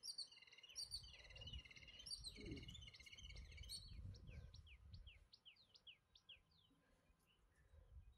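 Faint birdsong: quick repeated chirping phrases, then a rapid run of short downward-sliding whistled notes, about five a second, that stops a little past the middle. A low rumble lies underneath.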